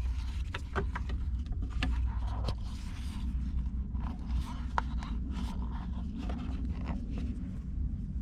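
Scraping and light clicks of metal parts being handled and fitted by hand, over a steady low rumble.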